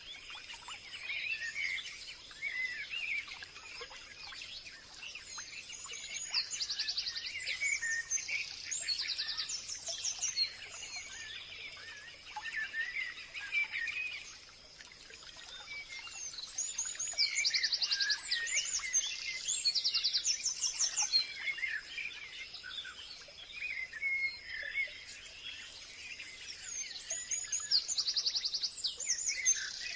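Several wild birds singing and chirping in a forest, with a thin steady high tone underneath. Bursts of rapid high trills come back about every ten seconds.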